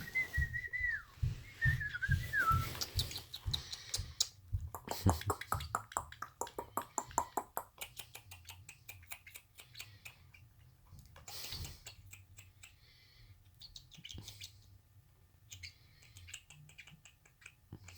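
Pet cockatoo whistling a few short notes that slide up and down, then a long run of light clicks and taps that grow sparser toward the end.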